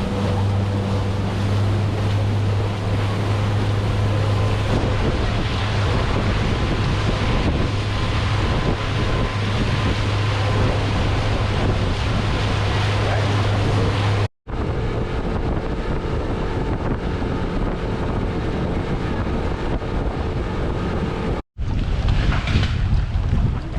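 A motorboat under way: a steady low engine drone under rushing water and wind buffeting the microphone. The sound cuts off abruptly about two-thirds of the way through, and again near the end. After the first cut the drone is gone, leaving water and wind noise.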